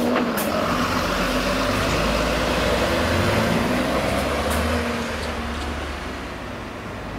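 Czech class 754 diesel locomotive with one coach running past, its engine hum and rolling noise steady with a few sharp clicks, then fading away about five seconds in.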